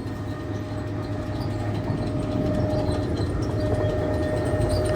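Grain mill machinery running steadily: a dense mechanical clatter and rumble with a low hum and a steady whine, slowly getting louder.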